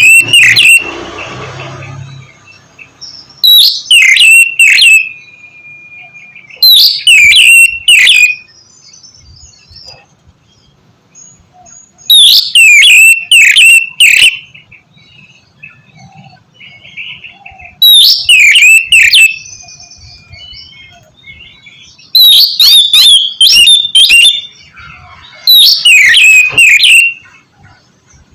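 Oriental magpie-robin (kacer) calling in loud bursts of several quick, clear notes, the bursts coming again every four to six seconds, with faint chirps between them.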